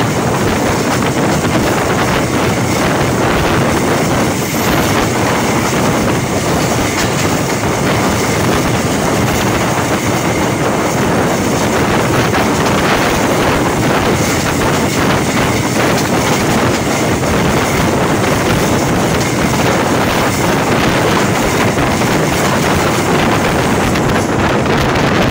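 Diesel-locomotive-hauled train running on the rails: a steady, loud rush of engine and wheel noise with clickety-clack from the track.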